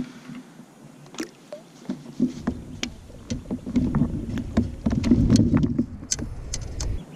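Knocks and clicks of handling on a fishing kayak. A loud, dense low rumble starts about two seconds in and stops just before the end, while a bass is being landed and brought aboard.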